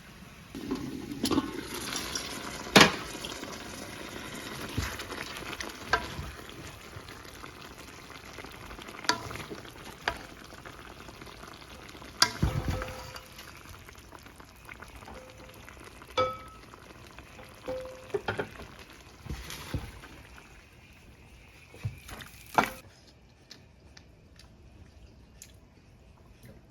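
Food frying in a pan, a steady sizzle with scattered clicks and knocks of a utensil against the pan. The sizzle drops away about 23 seconds in.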